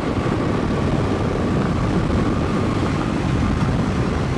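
Steady highway driving noise: wind rushing past and a dense, low tyre and engine rumble from a car at road speed.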